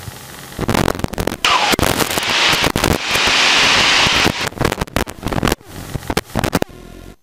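Crackling, popping static on the airplane's cockpit intercom and radio audio, with a stretch of loud hiss about a second and a half in that lasts some three seconds, then a sudden cut-out near the end.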